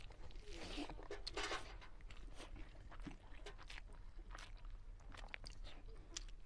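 Close-up sounds of a person eating rice and cluster bean curry by hand: chewing and mouth noises, with scattered short clicks from fingers working the food on a steel plate.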